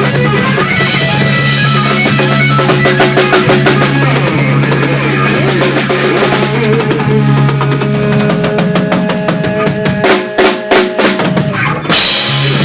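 Rock band music with a busy drum kit and a steady bass line. Near the end the band plays a few separate accented hits, then a final loud cymbal crash.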